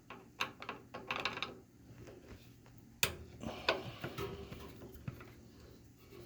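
Irregular metal clicks and clinks of a hex key and small screws being worked and handled on a pellet grill, with a sharper knock about three seconds in.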